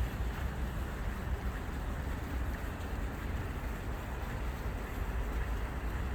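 Steady rush of flowing water under a low rumble of wind on the microphone.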